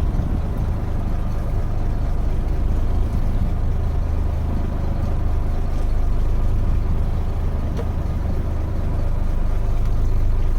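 A fishing boat's engine running steadily underway, a constant low drone.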